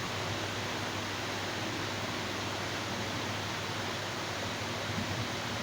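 Steady background hiss with a faint low hum, no speech: the noise floor of the room and recording.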